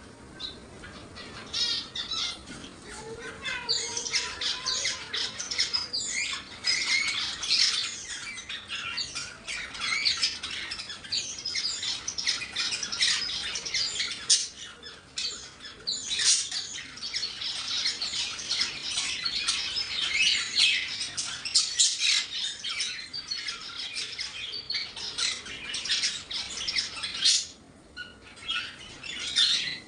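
Many pet parrots squawking and chattering together, short shrill calls overlapping continuously, with a brief lull near the end.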